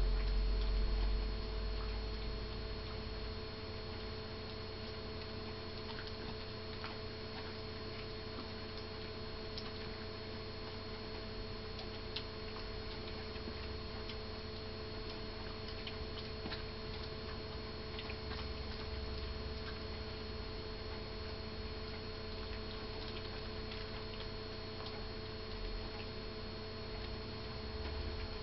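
Faint, irregular clicks of a greyhound gnawing a Jumbone chew treat, over a steady electrical hum. A low rumble near the start.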